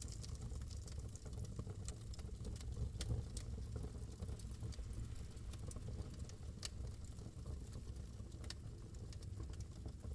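Wood fire burning in a fireplace: irregular crackles and snaps, a few sharper pops among them, over a low steady rumble.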